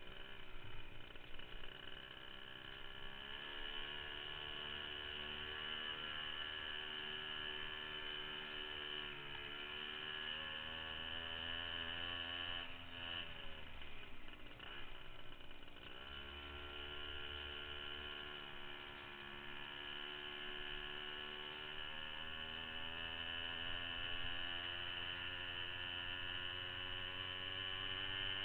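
Minibike's small engine running, its pitch rising and falling as it speeds up and slows, dropping away briefly about halfway through before picking up again.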